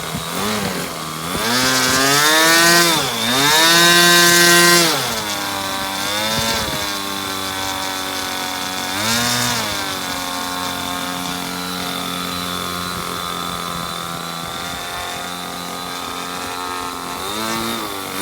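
Kyosho Calmato RC plane's .46 glow engine running at high revs, its pitch swinging up and down several times, highest and loudest a few seconds in.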